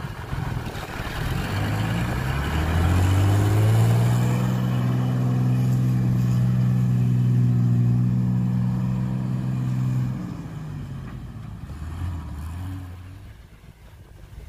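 Heavy diesel engine revving up, holding high revs for about six seconds, then dropping back and fading away.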